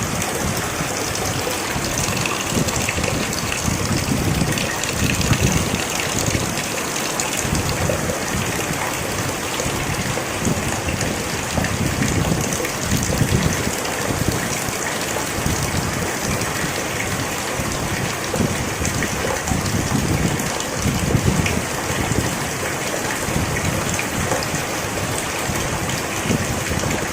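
Heavy rain falling beside a river: a dense, steady hiss of rain and rushing water, with uneven low rumbling surges underneath.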